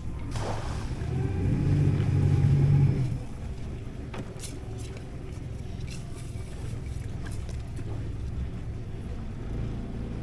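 Boat engine running under way, swelling louder for a couple of seconds near the start before settling to a steady hum.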